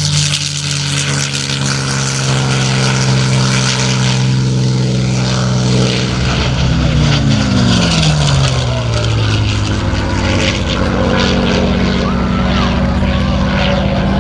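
North American P-51D Mustang's V-12 Merlin engine and propeller running hard as it passes, the engine note dropping in pitch about seven seconds in as the plane goes by.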